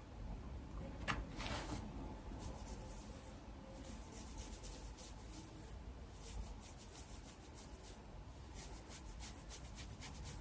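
Fingers rubbing texture powder through hair, a series of soft, faint scratchy rustles, with a single click about a second in.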